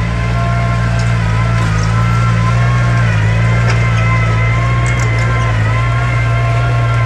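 Diesel engine of heavy earthmoving equipment running steadily under load, a deep hum with a high whine that wavers in pitch.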